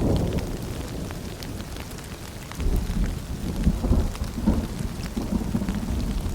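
Rain pattering and dripping, with a low rolling rumble of distant thunder underneath. The rumble fades, then swells again about two and a half seconds in.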